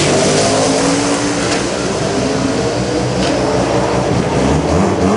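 A drag car's engine runs loud and steady, its pitch shifting slowly, dipping early on and climbing again near the end.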